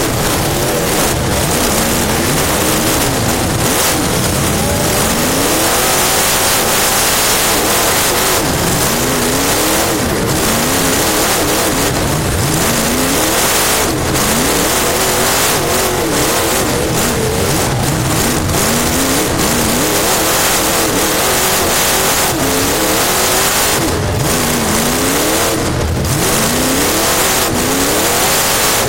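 Race car engine heard from inside the car at speed, its pitch rising and falling over and over as the driver accelerates and lifts, under a constant loud rush of wind and road noise.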